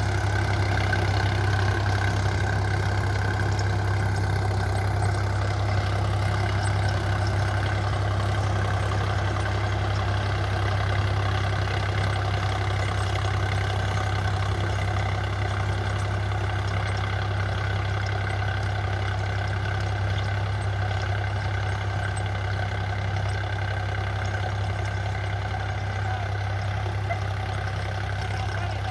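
Preet 955 tractor's diesel engine running at a steady, even speed with a strong low hum.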